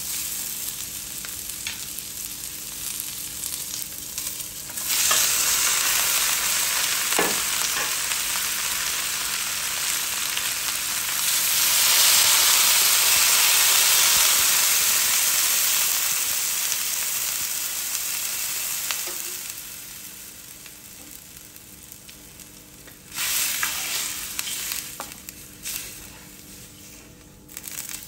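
Sliced onions sizzling in oil in a stainless wok as a spatula stirs them; about five seconds in the sizzle grows louder. From about twelve seconds water is poured into the hot wok over the browned chicken thighs with a loud rushing hiss for several seconds, then the sound dies down to a quieter level, with a short loud burst a few seconds later.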